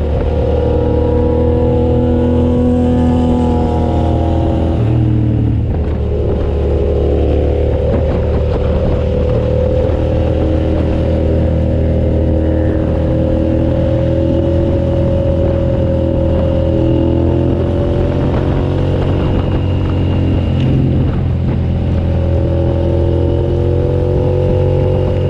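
2007 Suzuki SV650S's 645 cc V-twin engine running hard on track, its pitch rising and falling as it accelerates and eases off, with brief breaks in the note about five seconds in and again near the end, under a steady rush of wind.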